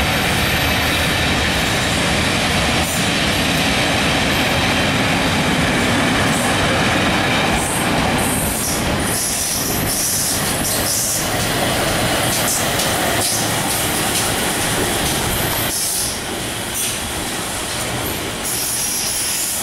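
Steam-hauled train of passenger coaches rolling close past, with steady wheel and rail noise. High wheel squeals come and go from about eight seconds in as the locomotive and tender pass.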